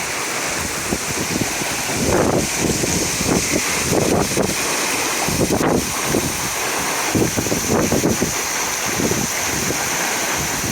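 Wind buffeting the microphone in uneven low gusts over a steady rushing hiss, as the Jeep Wrangler moves along the flooded road.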